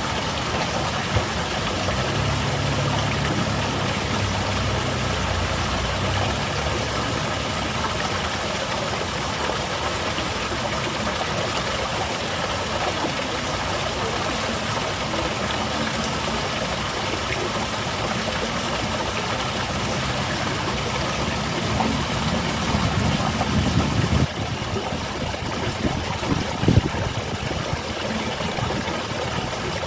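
A garden waterfall splashing steadily, with a low engine drone in the background that swells about two-thirds of the way through and then drops away suddenly.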